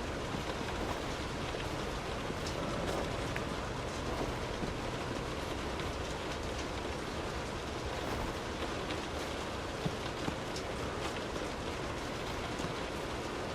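Steady rain falling on street surfaces, with scattered sharper drop ticks here and there.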